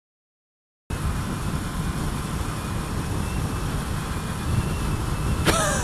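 Motorcycle riding in traffic, heard from an on-bike camera: a steady low rumble of engine and wind noise that starts suddenly about a second in. Near the end a brief sound falls in pitch.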